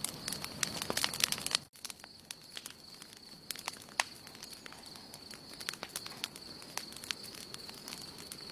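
Campfire crackling: wood burning with many sharp pops and snaps. Just under two seconds in, the level drops abruptly and the crackles become sparser and quieter. A faint steady high-pitched tone runs underneath.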